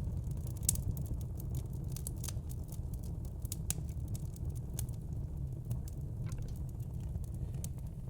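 Fire crackling: irregular sharp snaps and pops, several a second, over a steady low rumble.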